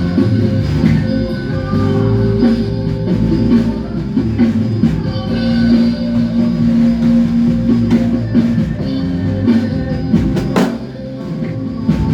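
A band rehearsing: drum kit with bass and guitar, the bass holding long low notes under steady drum hits, with one sharp loud hit about ten and a half seconds in.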